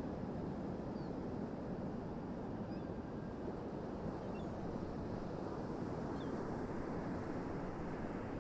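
Ocean surf giving a steady low wash, with a few faint high chirps over it.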